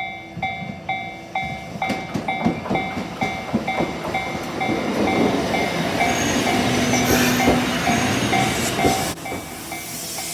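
Fukui Railway train coming past close by, its wheels clicking over the rail joints and a rushing noise swelling as it passes. A level-crossing warning bell rings about twice a second and stops near the end.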